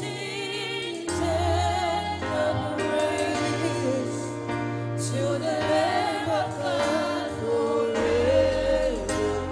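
Gospel worship singing by a group of voices over sustained keyboard and bass chords.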